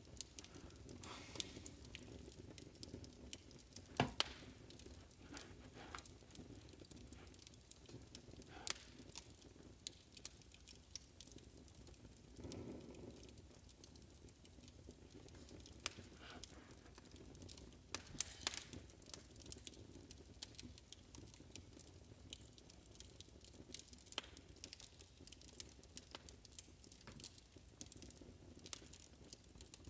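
Faint crackling of a wood fire: irregular pops and snaps over a low steady hiss.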